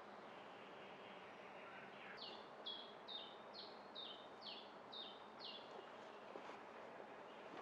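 A songbird singing a run of eight quick notes, about two a second, each sliding down in pitch, starting about two seconds in. Under it is a faint, steady forest hiss.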